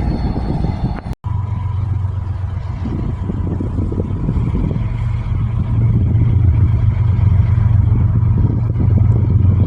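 Diesel locomotive engine running with a steady low drone that grows a little louder about halfway through. The sound drops out for an instant about a second in.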